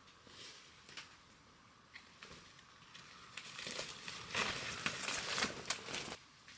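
Crinkling, rustling noise with scattered clicks, growing into a louder burst about three and a half seconds in and stopping abruptly near the end.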